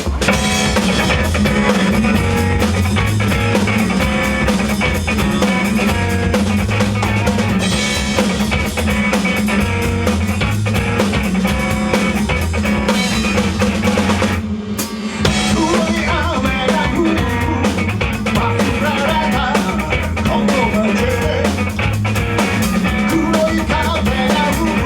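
Band music played live: drum kit, guitar and bass in an instrumental passage, with a short break a little past halfway.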